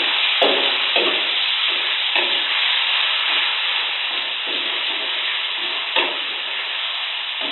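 Ground spice paste sizzling steadily in hot oil in a metal wok, with a metal utensil scraping against the wok as it is stirred, about once a second at first and less often later.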